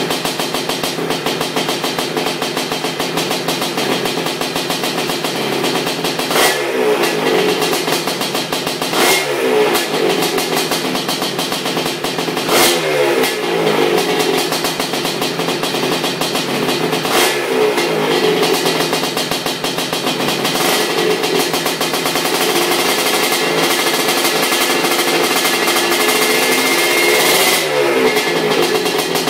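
ESR 310 big-bore two-stroke engine in a Honda 250R three-wheeler running at idle, blipped several times, each time rising sharply and then falling back to idle. It is running its first heat cycle after the build.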